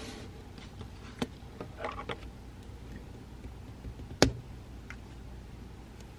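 Light taps and clicks of desk work during quiet study, with a little cluster about two seconds in and one sharp click about four seconds in, over a steady low room hum.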